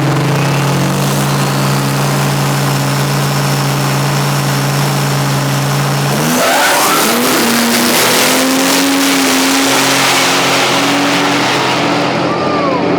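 Drag-racing pickup truck engine held at steady revs, then launching at full throttle about six seconds in. The engine note climbs under a loud rush of noise, and the hiss dies away near the end as the truck runs off.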